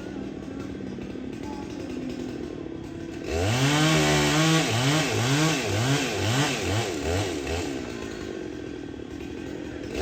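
Chainsaw running at idle, then revved hard about a third of the way in, its engine pitch rising and falling several times before it drops back to idle near the end.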